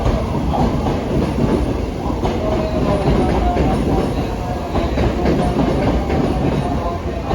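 JR West 321 series electric commuter train running on the rails: a loud, steady rumble with scattered clicks, and a faint whine partway through.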